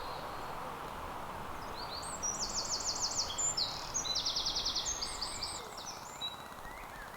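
A songbird singing one song of rapid repeated high notes, falling in two runs and ending in a short flourish, over a steady background hiss.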